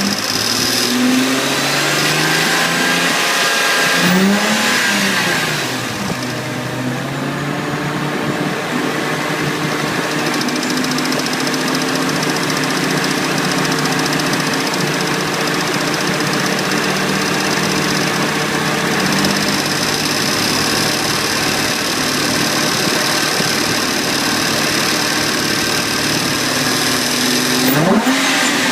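Engine revving: the pitch rises and falls about four seconds in, then the engine runs steadily, with another rise in pitch near the end. A ticking sound is heard with the engine as it revs.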